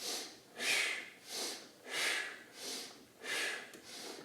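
A man breathing hard and rhythmically, with short noisy breaths about one every two-thirds of a second, paced to a rocking exercise.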